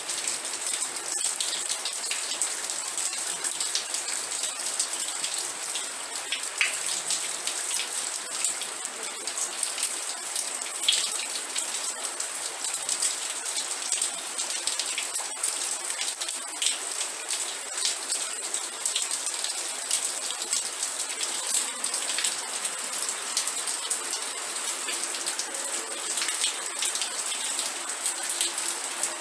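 Steady rain: a continuous hiss of rainfall, with many individual drops ticking and pattering on a surface.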